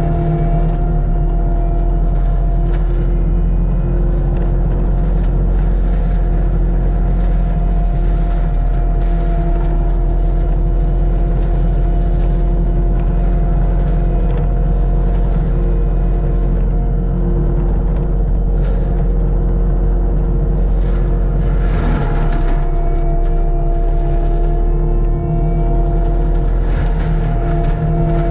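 Heavy land-clearing machine's diesel engine running at steady, high revs, with a fixed whine riding over the low rumble. The sound roughens briefly about three-quarters of the way through, then settles back.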